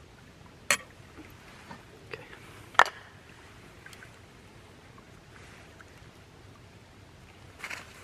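Two sharp clicks of camp cookware being handled, about two seconds apart, with a few fainter clicks between them, over a faint steady hiss.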